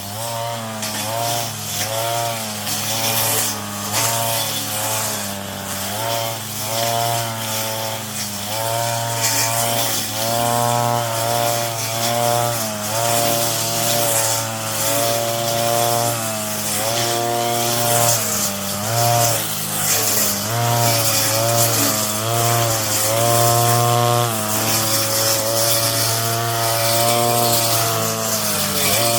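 Brush cutter engine running at high speed, its pitch repeatedly sagging and recovering every second or two as the spinning head bites into weeds and frees again.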